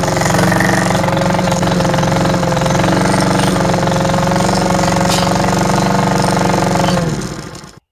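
Cub Cadet walk-behind mower's 173cc PowerMore single-cylinder engine running steadily while mowing, with no clanging; it runs at what the owner takes for slightly low RPM. Near the end the sound dips in pitch and fades out.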